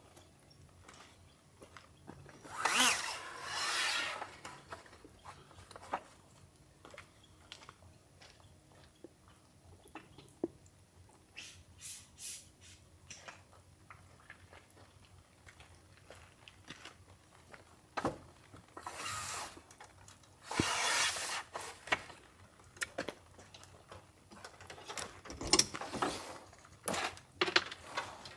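Things being handled by hand: intermittent rubbing and scraping with scattered small clicks and knocks, and louder swishing rubs about three seconds in, twice past the middle, and again near the end.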